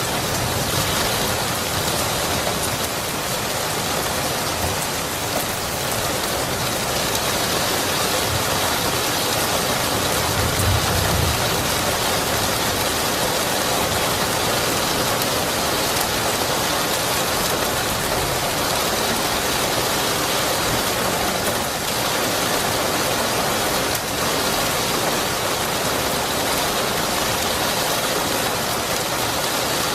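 Steady heavy rain pattering on surfaces, a dense even hiss. A brief low rumble, distant thunder, swells about ten seconds in.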